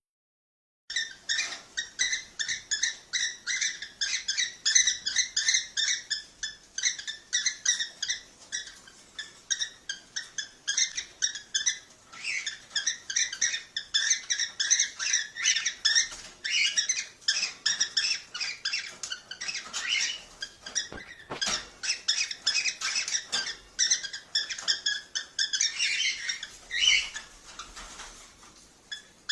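Cockatiels chirping and chattering in a fast, unbroken run of short high calls, several a second, starting about a second in after a moment of silence.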